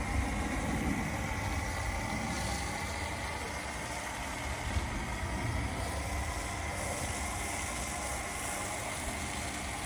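Electric pressure washer running steadily while spraying water, a constant hiss with a low hum and a faint steady whine.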